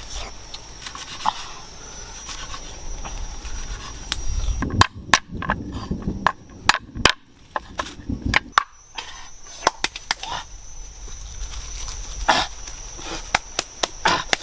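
Chopping with a blade on wood: a run of about a dozen sharp strikes, about three a second, in the middle, then a few lighter knocks. A steady high-pitched tone hums underneath throughout.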